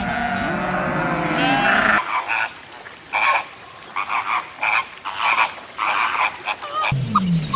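A long, wavering bleat ends abruptly about two seconds in. It is followed by a run of short, separate animal calls, about two a second, until near the end, when another animal's call cuts in.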